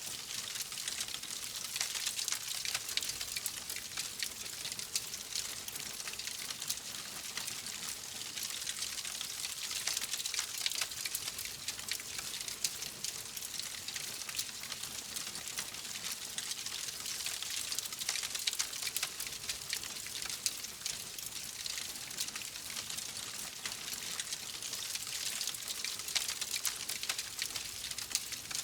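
Wood fire in a fireplace crackling steadily: a dense run of small snaps and pops over a soft hiss.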